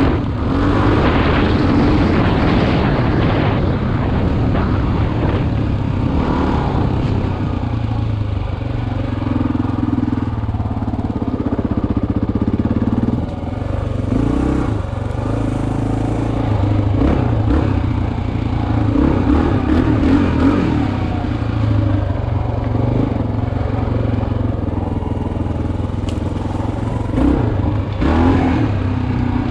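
Dual-sport motorcycle engine running under way, heard from the rider's helmet, the engine note stepping up and down as the revs change.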